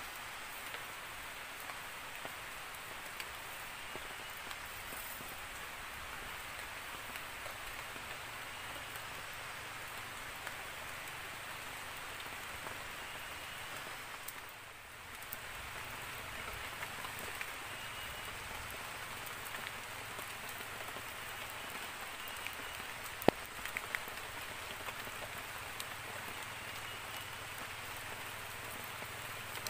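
Steady rain falling on forest leaves, an even hiss, with one sharp tap about two-thirds of the way through.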